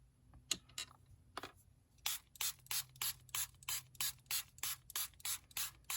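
Small spray bottle misting water, pumped rapidly about three times a second, to rewet dried gold watercolour paint. A few faint taps and rustles come before the spraying starts about two seconds in.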